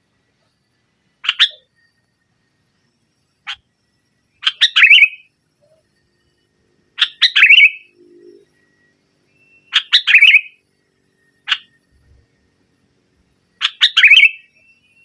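Sooty-headed bulbul (kutilang) calling loudly: short, bubbly phrases that fall in pitch, repeated about every three seconds, with single sharp notes in between.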